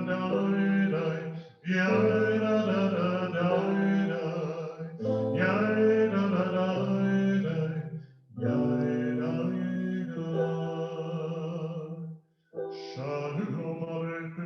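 Cantor and his sons singing a Shabbat liturgical melody with keyboard accompaniment, in sung phrases of three to four seconds broken by brief pauses.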